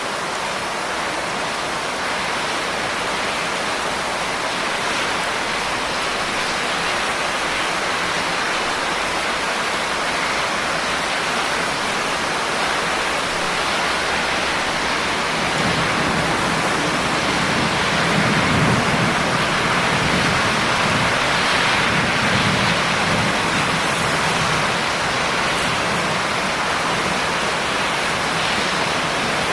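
Steady rain, an even hiss of falling drops. A low rumble swells up about halfway through and dies away a few seconds before the end.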